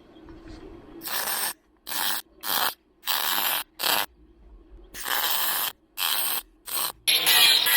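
MIG welder crackling in a series of short bursts, about eight stitch or tack welds with brief pauses between them, then a longer continuous run near the end. These are the welds laying rust-repair patch metal into a car body's A-pillar.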